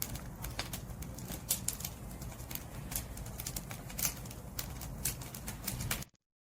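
Firewood burning in an open fire: irregular sharp crackles and pops over a steady low rumble of the flames. The sound cuts out to silence for a moment near the end.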